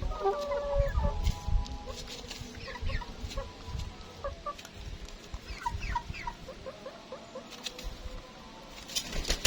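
Ayam kampung (village chickens) clucking in many short, chirpy calls, with one longer held call in the first second or so. A couple of sharp clicks near the end.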